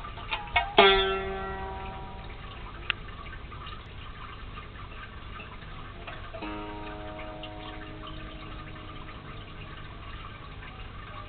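Sitar strings plucked by a kitten's paw: a few quick plucks in the first second, then long ringing notes. There is a sharp tick about three seconds in, and one more pluck about six and a half seconds in rings on until near the end.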